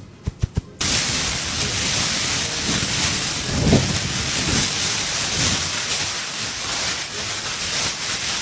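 A few sharp taps, then a sudden steady hiss like heavy rain starting just under a second in, with a low thunder-like rumble swelling briefly in the middle; a rainstorm sound presented as made by a person imitating nature.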